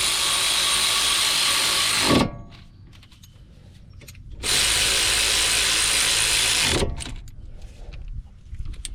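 A cordless power tool, drill or electric ratchet, runs twice for about two seconds each time, driving in the brake caliper bolts. Quieter handling sounds come between the two runs.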